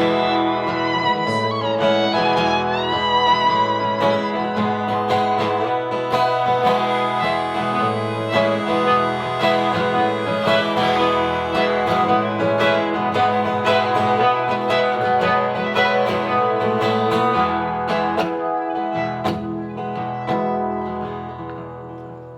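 Instrumental break in a live acoustic folk song: strummed acoustic guitar under a lead melody that slides and wavers in pitch. It dies down over the last couple of seconds.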